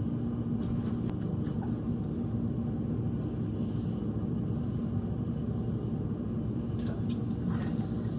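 Steady low rumble with a constant hum, mostly deep sound, unchanging throughout, with a few faint ticks near the end.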